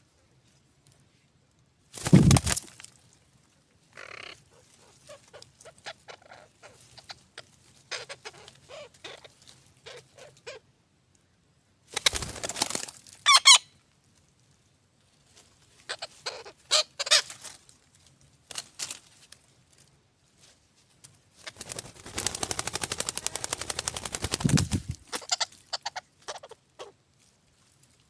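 A bird calling in several separate loud bouts, ending in a long run of rapid pulsing calls.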